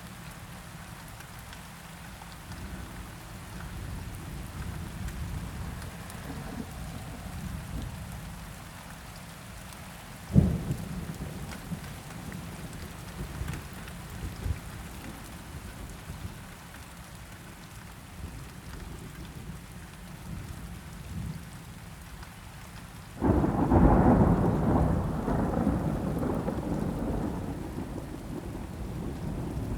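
Steady rain falling with thunder. About ten seconds in comes one sudden, sharp thunder crack, and near the end a loud rumble of thunder breaks in suddenly and rolls on, slowly fading.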